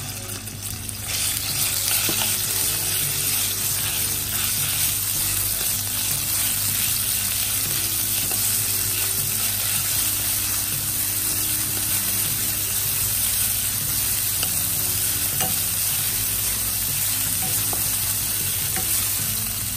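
Minced pork sizzling in hot oil in a nonstick wok while a wooden spatula stirs and scrapes it around the pan. The sizzle grows louder in the first couple of seconds as the pork hits the oil, then holds steady.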